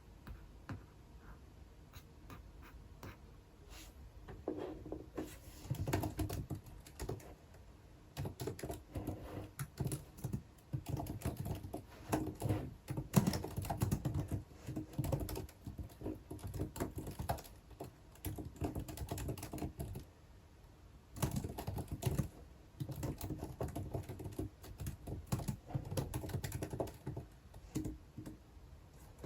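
Typing on a computer keyboard, in bursts of quick key clicks that start about five seconds in after a few faint ticks, with a short pause near twenty seconds.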